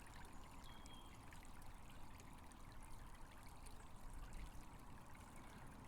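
Faint, steady trickle of running water from a small stream.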